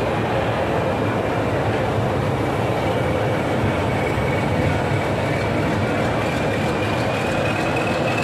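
Indian Railways passenger train, hauled by a blue locomotive, rolling slowly alongside a platform: a steady rumble with a faint high whine that rises slowly.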